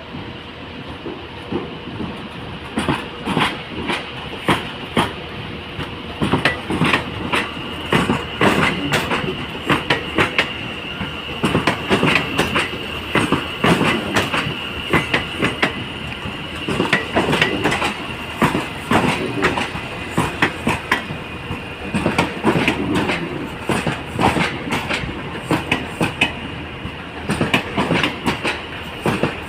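A train rolling over rail joints and points: a quick, irregular run of clicks and knocks from the wheels, with a steady high-pitched wheel squeal that starts a few seconds in and fades near the end.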